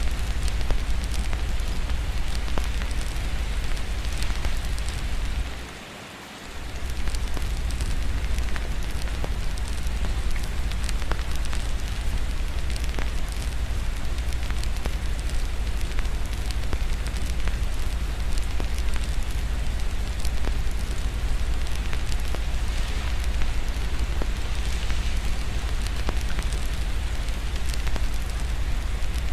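Steady rain hiss mixed with the crackle of a wood fire, over a constant low rumble. The whole mix dips briefly about six seconds in.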